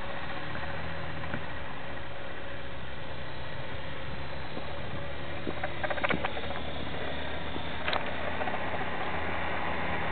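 Esky Belt CP electric RC helicopter hovering: a steady whine and drone from its motor, belt-driven gears and rotor blades. A few brief clicks come about six and eight seconds in.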